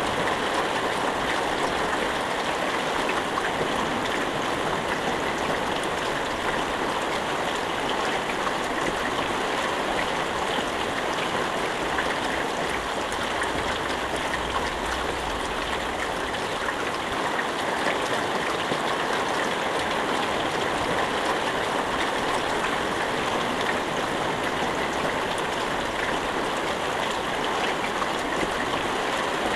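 Steady heavy rain, an even dense hiss of falling water with many fine drop ticks, without thunder.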